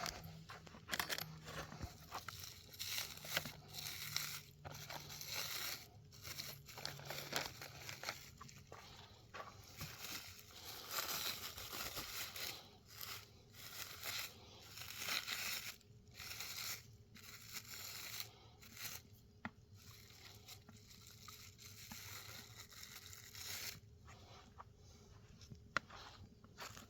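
Rissoles and burgers frying in oil on a barbecue hotplate, an irregular sizzling crackle that swells and fades.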